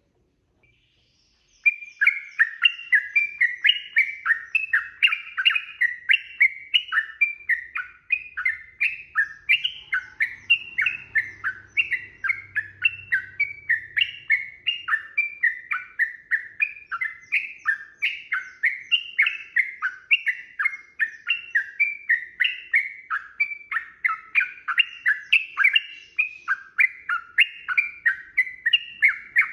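Yellow-vented bulbul (trucukan) singing a long, unbroken run of quick, rising and falling chattering notes, about four a second, starting about two seconds in.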